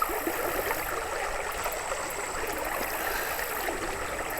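Creek water running over rocks, a steady babble full of small splashes and trickles.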